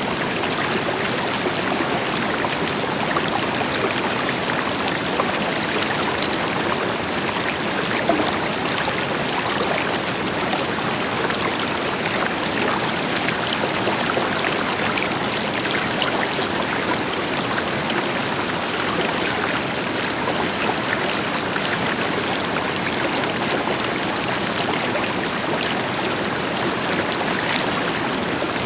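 River water flowing steadily over rocks, with small splashes and gurgles over the deeper, even rush of a waterfall.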